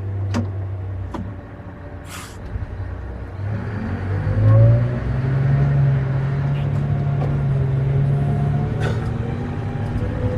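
Haul truck's diesel engine running, then revving up about four seconds in and holding at a steady higher pitch, with a few sharp clicks near the start.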